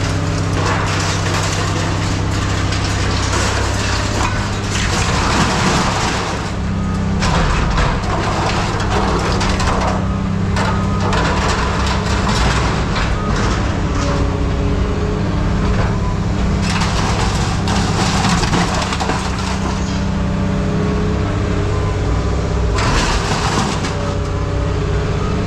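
Heavy machinery engine running steadily while scrap metal is crunched, scraped and knocked about, with irregular sharp cracks and clanks.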